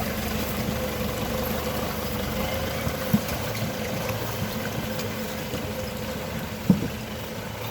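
Toyota 4x4's engine running steadily at low revs, with two short knocks, one about three seconds in and another near the end.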